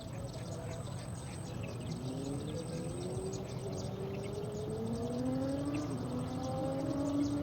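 An engine whose pitch rises slowly from about two seconds in, over a low rumble, with faint short high chirps throughout.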